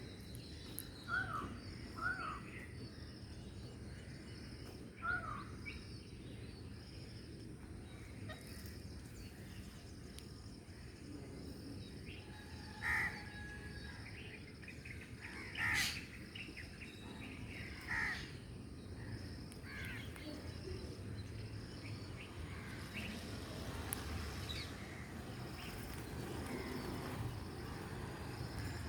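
Parrots squawking in short, separate harsh calls, a few soft ones at the start and louder ones around the middle, over a steady low background noise.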